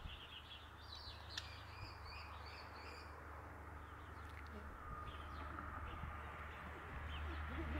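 Small birds chirping in quick, high runs of chirps through the first three seconds, with a few fainter chirps later, over a steady low outdoor rumble.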